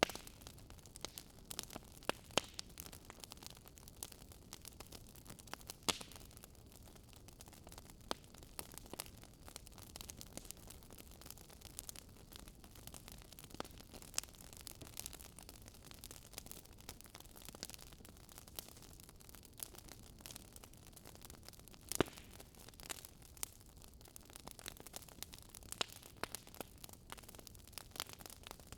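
Wood fire crackling: a soft steady hiss with irregular sharp pops and snaps from the burning logs, a few louder pops standing out.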